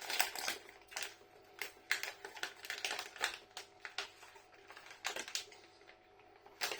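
Plastic snack packet crinkling and rustling as it is handled, in a run of irregular crackles.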